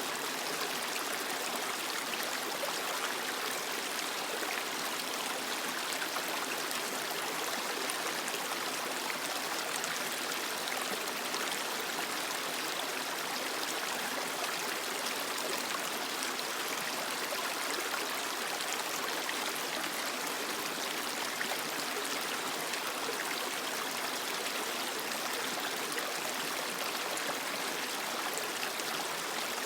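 Creek water running over rocks: a steady rush with fine splashes and trickles.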